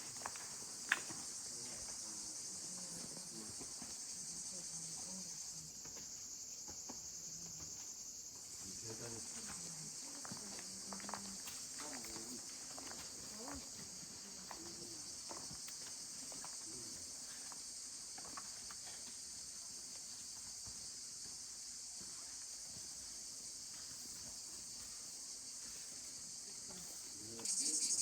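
Steady, high-pitched chorus of insects chirring without a break, growing louder near the end, with a single sharp click about a second in.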